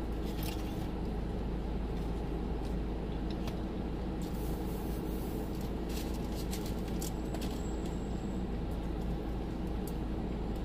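Steady low hum and rumble of an idling car with its air conditioning running, heard from inside the cabin, with a few faint clicks and rustles scattered through it.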